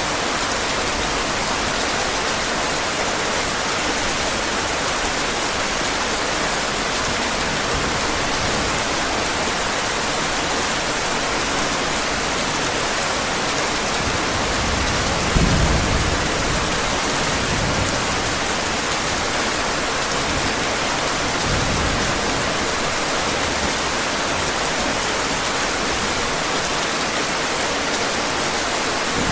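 Heavy rain falling steadily, with a low roll of thunder swelling about halfway through and a fainter rumble a few seconds later.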